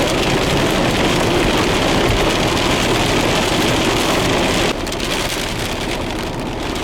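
Heavy rain and wind, a loud, dense hiss that drops suddenly to a lower level about two-thirds of the way through.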